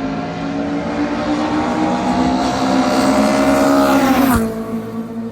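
Drag racing car's engine running hard at steady high revs, growing louder, then a sharp crack about four seconds in as the pitch drops suddenly and the sound falls away.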